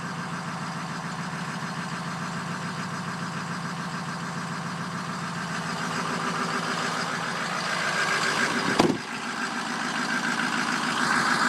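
Ford 6.0 Powerstroke V8 turbodiesel idling steadily on its stock exhaust, gradually getting louder in the second half. A single sharp knock sounds about three-quarters of the way through.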